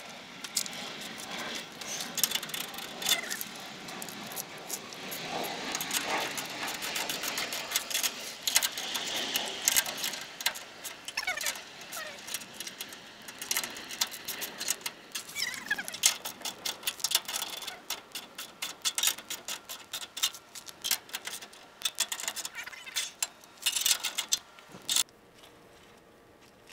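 Metal hand tools and parts clinking and rattling, many sharp clicks in quick succession, thickest in the second half and dying down near the end.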